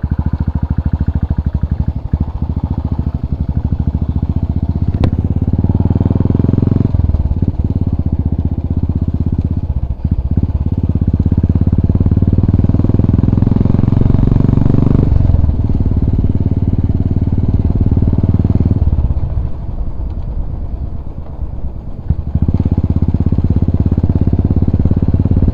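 Royal Enfield Bullet's single-cylinder engine and exhaust running under way, its note rising and falling with the throttle. It eases off for a few seconds past the middle, then picks up again.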